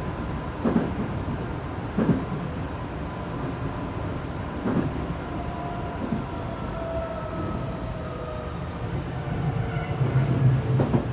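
A Tokyo Metro 7000 series train with Hitachi IGBT inverter drive runs, heard from on board. Its motor whine falls slowly in pitch as it slows for a station stop, over steady wheel rumble with a few knocks from the wheels crossing rail joints.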